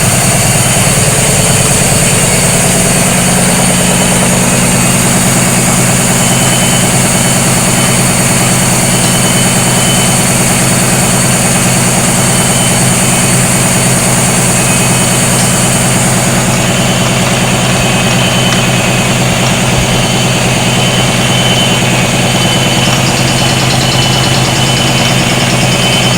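Washing machine running steadily on inverter power, its motor giving a constant hum. A higher hiss above it fades out about two-thirds of the way through.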